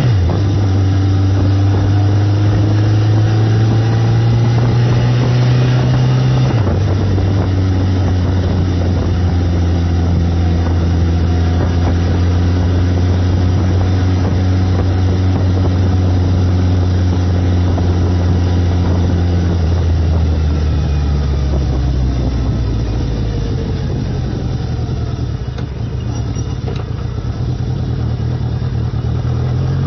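1979 Yamaha XS1100's air-cooled inline-four engine running as the motorcycle is ridden. Its pitch drops about six seconds in, holds steady, sags slowly from about twenty seconds in, then climbs again near the end.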